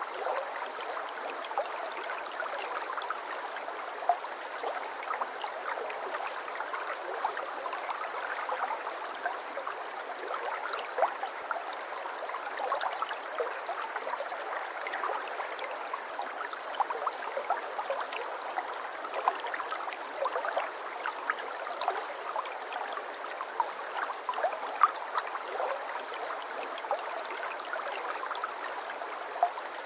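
Shallow babbling brook: water trickling and gurgling over stones, a steady bubbling with many small splashes and plinks.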